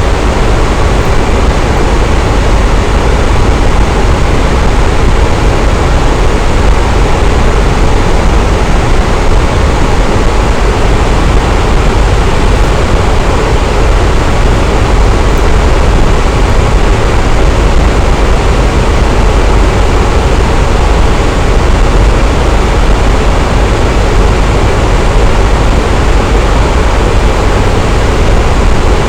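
Electric fan running steadily: an even, constant whoosh of moving air, heaviest in the low end, with a faint steady motor hum.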